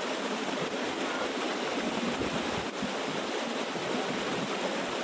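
Water of a small waterfall rushing and splashing steadily.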